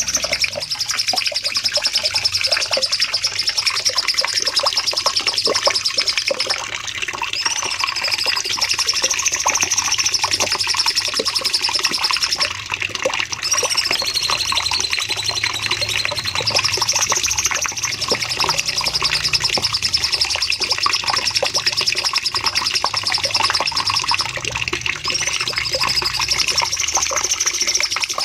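Cucak cungkok songbird singing long, fast rapid-fire phrases ('nembak panjang'), a dense high trill held for several seconds at a time, with short breaks about six, thirteen and twenty-four seconds in.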